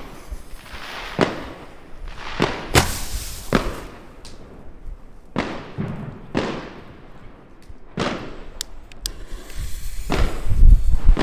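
Fireworks going off: a series of sharp bangs spread a second or so apart, each trailing off in an echo. Near the end a louder, continuous low rumble of reports builds.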